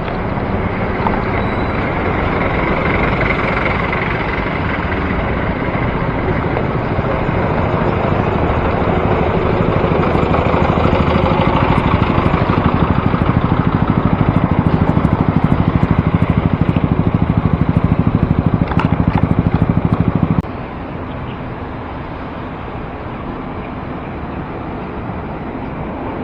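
City road traffic heard from a moving bicycle: a steady rush of vehicle noise that grows louder over about twenty seconds, then drops suddenly to a lower level.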